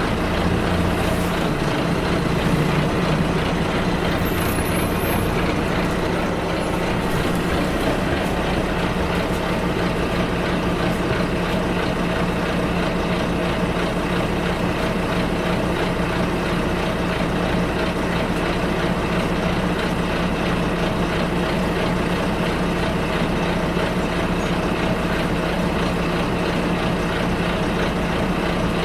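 Bus engine running steadily with road noise, heard from inside the bus cabin as a continuous low drone and rumble.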